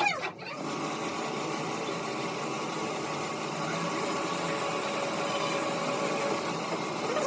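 A machine or engine running steadily: an even mechanical hum with a few faint steady tones that settles in about half a second in.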